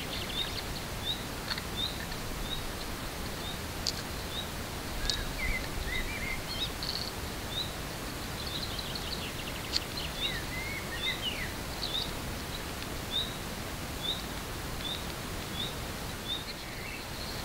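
Outdoor ambience of birdsong: one bird repeats a short high chirp about once a second, while other birds twitter now and then, over a steady background noise.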